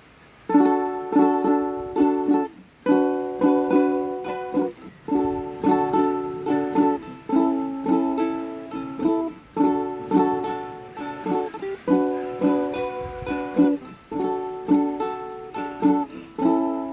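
Acoustic string instrument strummed in chords with a steady rhythm, about two strums a second, the chord changing every couple of seconds: the instrumental intro before the singing.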